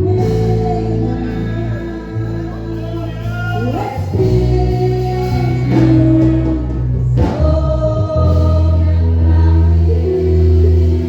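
Gospel worship music: voices singing a praise song over instrumental accompaniment with a steady bass line.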